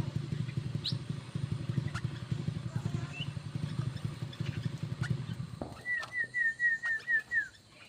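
A low engine rumble that cuts off suddenly about five and a half seconds in, then a bird calling a quick run of about six short, slightly falling notes. Scattered faint bird chirps come through throughout.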